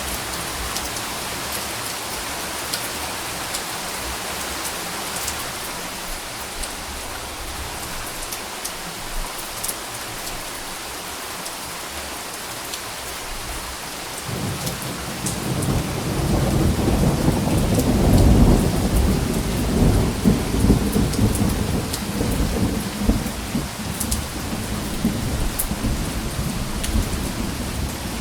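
Steady rain falling, with a low roll of thunder that starts about halfway through, builds for a few seconds and slowly dies away under the rain.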